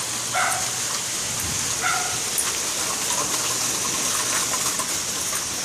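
Rain falling steadily: an even, constant hiss.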